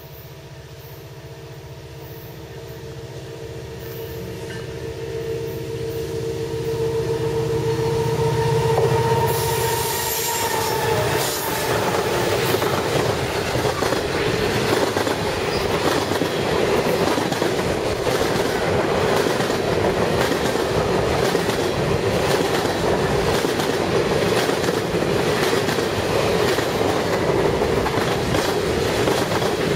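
A Canadian National train approaches with a steady locomotive drone that grows louder over the first several seconds. Then the train is passing close by: wheels clatter over the rail joints with a dense rushing noise.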